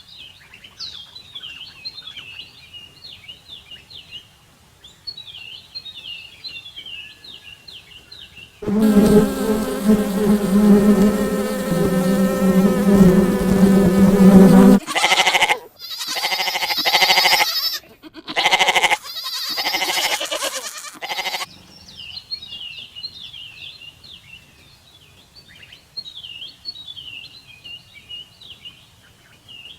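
Songbirds chirping in quick repeated phrases, broken in the middle by about six seconds of a loud, steady, droning animal call. Several shorter wavering calls follow before the birdsong returns.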